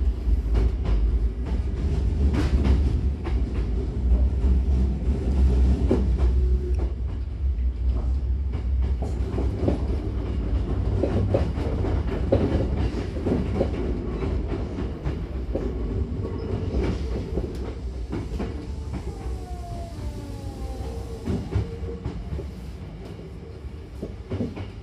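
Hankyu 9000-series electric train heard from inside the car while it runs: a heavy low rumble with wheels clacking over rail joints and points.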